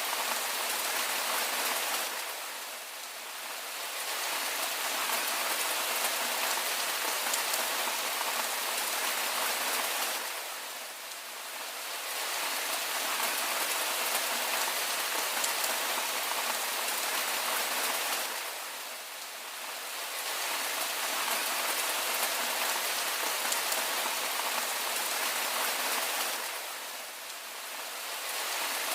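Steady rain, an even hiss that dips briefly in loudness about every eight seconds, four times.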